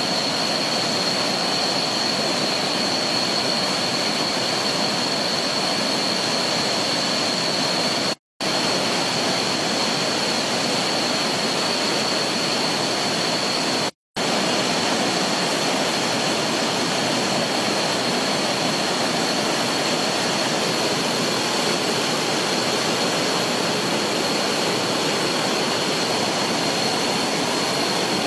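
Swollen floodwater rushing in a steady, loud roar of even noise, with a thin steady high tone above it; the sound cuts out twice for a moment.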